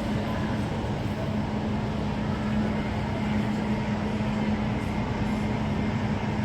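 Steady rumble of a train standing or running in a station, with a constant low hum.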